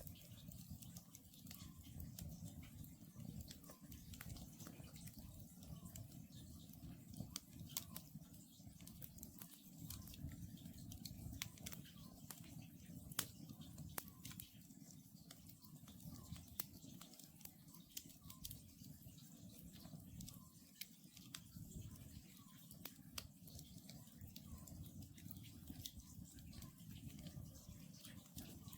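Wood campfire burning quietly, with frequent sharp crackles and pops from the burning logs at irregular intervals over a low, steady hum of flame.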